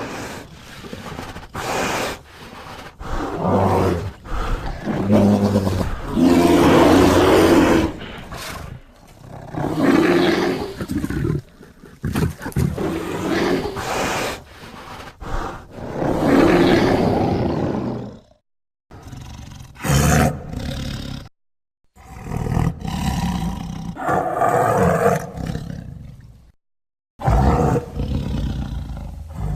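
A series of deep bear roars and growls, the sound effects of the extinct giant bear Arctotherium, about ten separate calls of one to three seconds each, several cut off by short gaps of silence.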